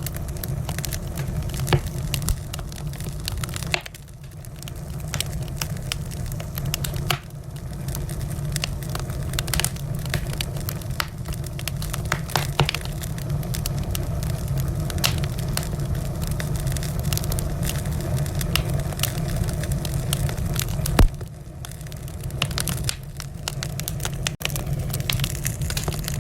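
Wood fire burning in a fireplace: many sharp crackles and pops over a steady low rumble of flames, with one louder pop about twenty seconds in.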